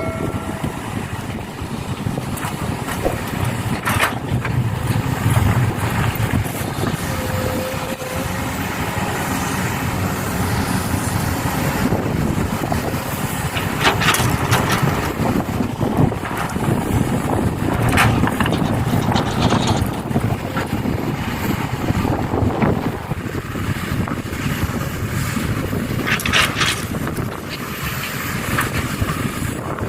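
Excavator and dump trucks at work: a steady engine rumble with a few sharp knocks now and then.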